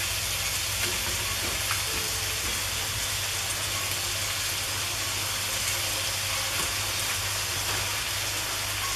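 Chicken and spinach sizzling in a hot frying pan, a steady hiss, with a couple of faint clicks in the first two seconds as spoonfuls of yogurt go in.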